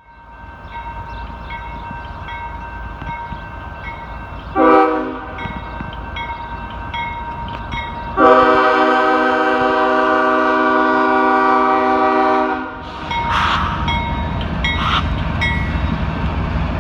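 Train horn sounding a short blast, then a long blast of about four seconds, over a bell dinging about twice a second; train rumble follows the long blast.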